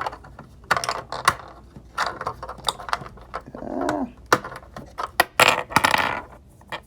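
Small plastic Barbie kitchen accessories clinking and clattering as they are handled and set down: a string of sharp clicks, with a louder rattle near the end.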